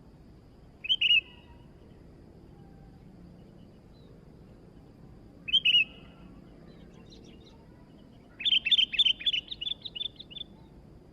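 Sooty-headed bulbul (kutilang) calling: a short chirp about a second in, another at about five and a half seconds, then a fast string of notes lasting about two seconds near the end.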